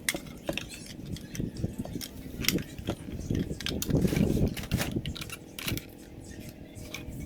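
Irregular clicks, rattles and knocks of hard objects being handled, with a louder stretch of handling noise about four seconds in.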